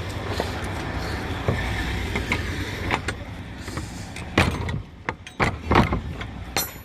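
Steady heavy rain with a low rumble underneath, then several sharp knocks and clanks in the second half as the truck trailer's rear doors are handled.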